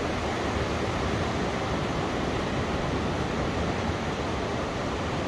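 Sea waves crashing in heavily, heard as a steady, even rush of noise.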